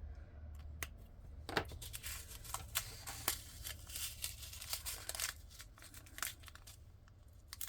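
Handling of small plastic packets and containers: irregular light clicks and crinkling, some stretches busier than others.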